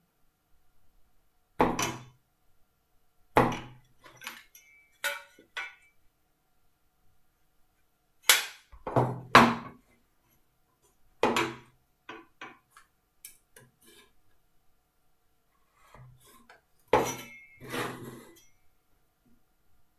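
Hand tools being picked up and set down on a wooden workbench during marking out: about a dozen separate knocks and clinks at irregular intervals, some with a short metallic ring.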